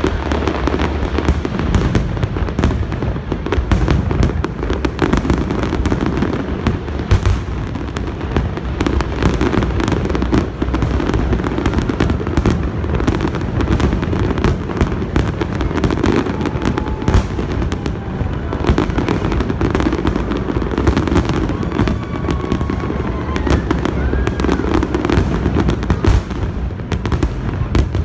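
Aerial fireworks display in a dense, continuous volley: many shell bursts and crackles overlapping with no pause.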